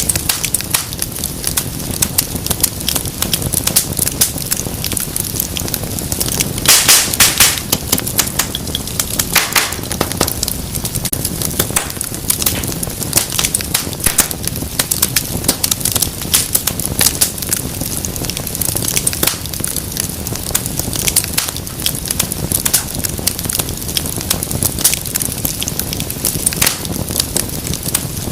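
Wood fire crackling with frequent sharp pops over a low steady rumble; a burst of loud pops comes about seven seconds in and another near ten seconds.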